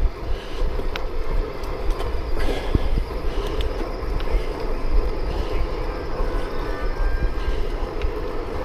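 Riding a bicycle on the road: wind rumbling on the microphone with a steady hum of tyres on pavement, and a few light clicks.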